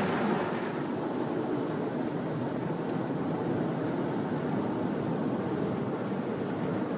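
Automatic car wash running over the car, heard from inside the cabin: a steady, muffled rushing.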